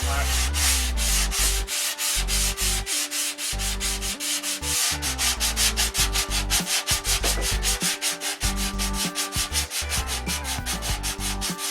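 Sandpaper being rubbed by hand over a spackle-filled hard spot on a model airplane, in quick, even back-and-forth strokes, about four or five a second.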